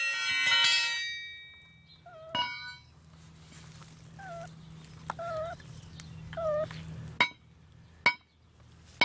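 A metal pipe clangs and rings out, and then the trapped cat gives about four short, weak meows. Three sharp metallic knocks follow near the end.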